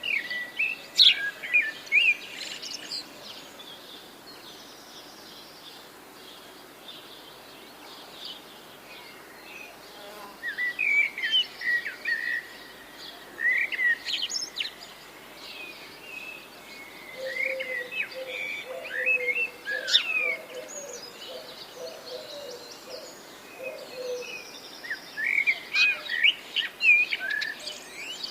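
Songbirds singing in phrases of quick chirps and whistles, with pauses of a few seconds between them. A second, lower call repeats for several seconds in the middle.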